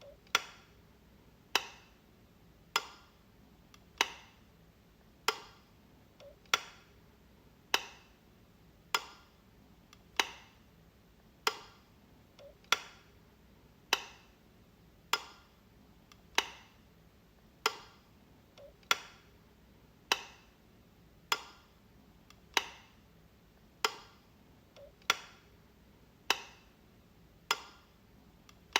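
A light switch clicking over and over, about one sharp click every second and a bit, each with a short bright ring after it.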